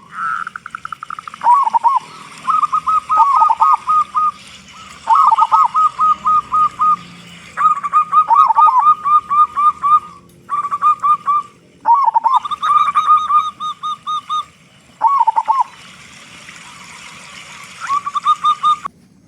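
Zebra dove (local perkutut) cooing in repeated phrases of quick, evenly spaced staccato notes, each phrase lasting one to three seconds and separated by short pauses.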